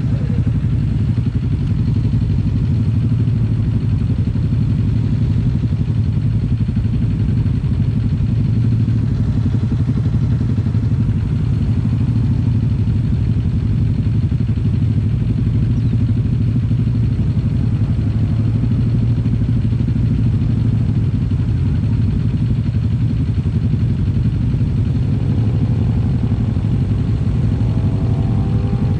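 Kawasaki Z250 parallel-twin engine running steadily through an aftermarket SeaPro muffler while cruising. A higher tone rises over the last few seconds.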